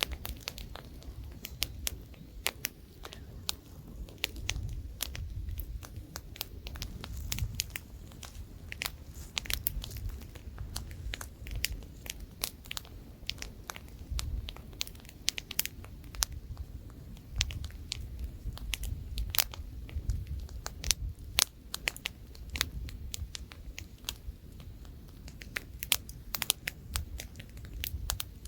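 Wood campfire burning, with frequent irregular sharp crackles and pops over a low, shifting rumble of light wind.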